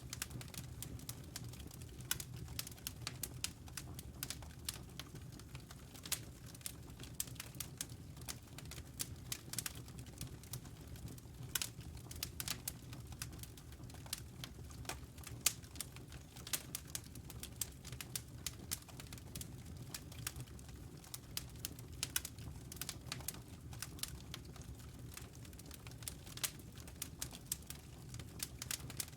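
Wood fire in a fireplace crackling, with many small irregular pops and snaps over a low, steady rumble.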